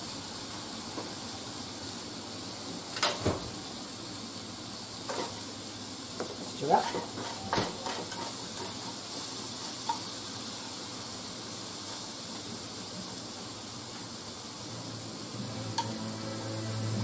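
Shrimp and salted fish sizzling steadily in oil in a nonstick frying pan. Wooden chopsticks knock and scrape against the pan a few times as the food is stirred, most around three seconds in and again between six and eight seconds in.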